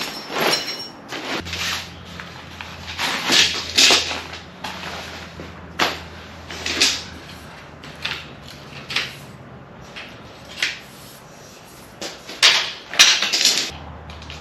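Rustling, scraping and knocking of a new canvas swag and its packaging being handled and unrolled. The noises come in irregular short bursts.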